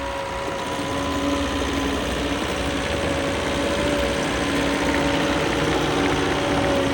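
Cat 249D3 compact track loader's diesel engine running steadily, a constant drone with a faint steady whine, getting slightly louder toward the end.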